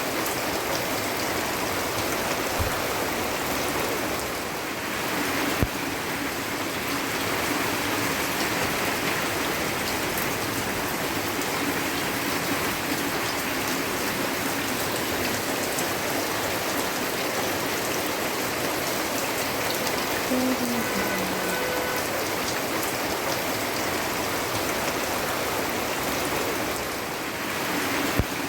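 Steady rain falling, a continuous even hiss of drops on surfaces.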